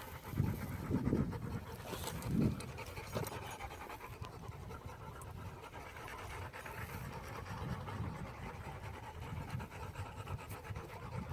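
Dogs panting steadily while they hold a stay, with a few soft low thumps in the first few seconds.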